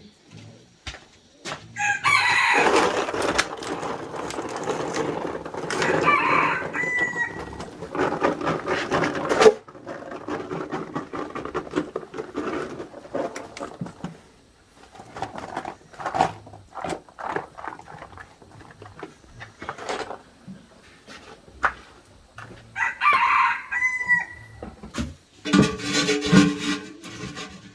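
Rooster crowing twice, about 2 s in and again around 23 s, with hens clucking and scattered short knocks and clicks in between.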